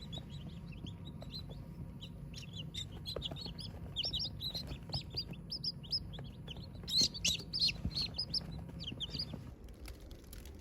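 A group of chicks peeping: many short, high chirps overlapping and busiest in the middle, over a steady low hum that stops near the end.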